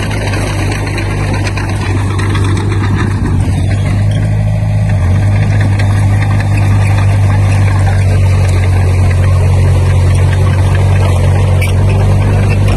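Heavy-equipment diesel engine running steadily, a loud low drone that shifts slightly in pitch about five seconds in, over a constant mechanical clatter.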